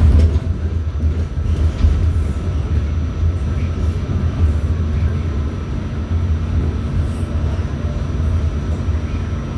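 R46 subway car running along the track, heard from on board: a loud, steady low rumble with a faint constant high whine.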